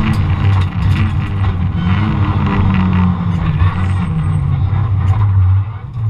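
Ford Fiesta ST150 rally car's four-cylinder engine heard from inside the cabin, the revs dropping right at the start as the driver lifts off, then running at lower, falling revs while the car slows, with a brief dip in sound near the end.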